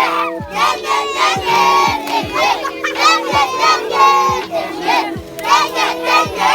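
A group of voices shouting and yelling together over music with a steady beat of about two thumps a second.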